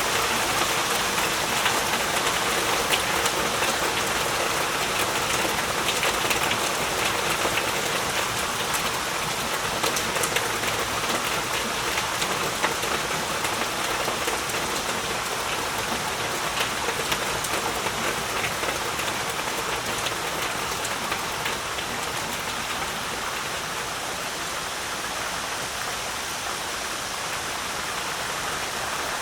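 Heavy rain falling steadily, a dense hiss with many individual drops pattering on surfaces, easing slightly toward the end.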